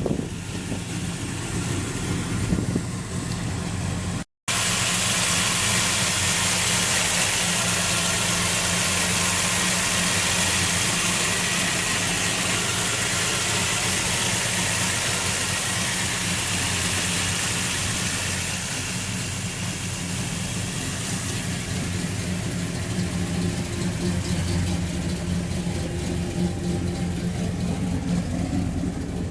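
1967 Plymouth Belvedere II's engine idling steadily, with a brief audio dropout about four seconds in and a slight rise in pitch near the end.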